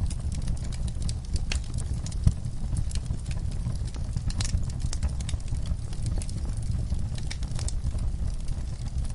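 Fire crackling: dense, irregular snaps and pops over a steady low rumble, with one louder pop about two seconds in.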